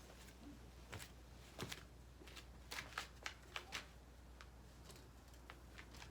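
Light clicks and taps of thin titanium plates and rods being handled and fitted together while assembling an ultralight folding fire stand, a dozen or so scattered and faint, busiest in the middle.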